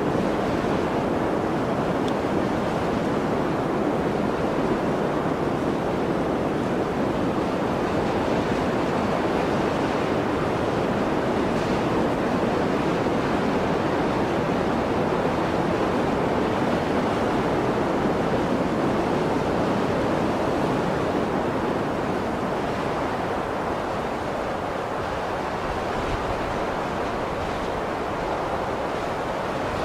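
Blizzard wind blowing as a steady, dense rush of noise that eases a little for a few seconds past the middle.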